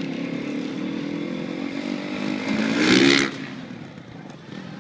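Motocross bike engine revving hard, its pitch climbing to a loud peak about three seconds in, then dropping away as the throttle comes off for a stunt jump.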